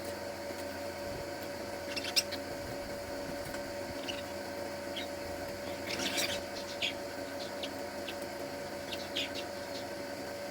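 Small birds giving short, high chirps now and then, with a busier burst about six seconds in, over a steady background hum.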